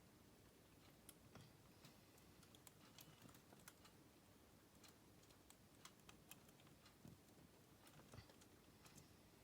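Live Manila clams (asari) in a container making faint, irregular clicking and ticking sounds, a few clicks a second at uneven intervals.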